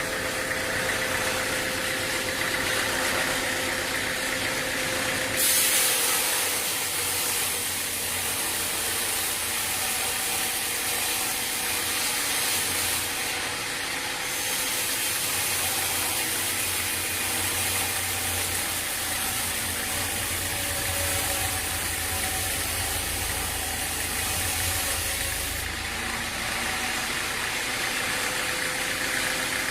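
Sawmill machinery running steadily. A loud hiss joins about five seconds in, breaks off briefly in the middle and stops near the end.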